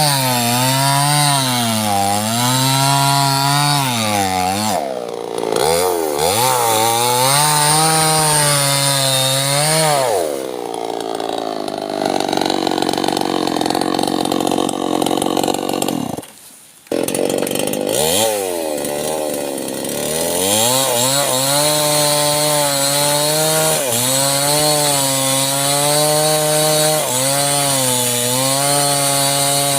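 Small chainsaw cutting sengon wood, its engine pitch dipping and recovering again and again as the chain bogs under load in the cut. A brief break cuts the sound just past halfway.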